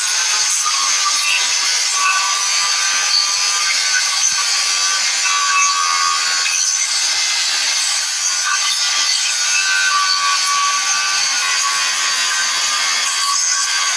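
A power tool running steadily on metal: an unbroken high hissing noise with a steady whine through it.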